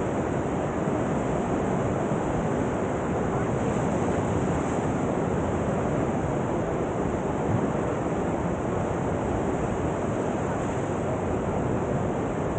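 Steady rushing of fast river water over the Bend river surf wave, an even whitewater roar with no breaks.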